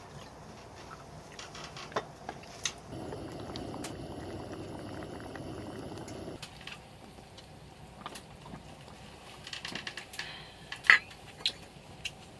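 Liquid pouring steadily for about three and a half seconds, starting about three seconds in and stopping abruptly. Scattered light clicks and knocks follow, the sharpest about eleven seconds in.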